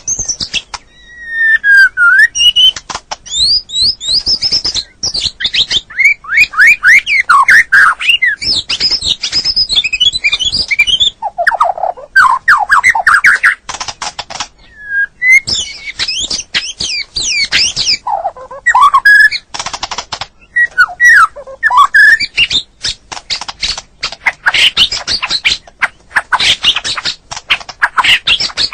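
White-rumped shama song: a continuous, loud stream of varied whistled phrases, quick rising and falling notes and harsh chattering clicks, with a short pause about a second in.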